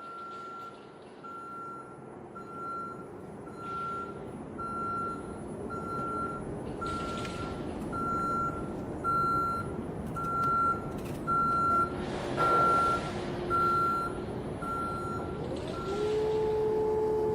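Vehicle reversing alarm beeping at one pitch about once a second over engine and traffic noise, with a few louder swells of noise. The beeping stops near the end, where a steady two-tone hum begins.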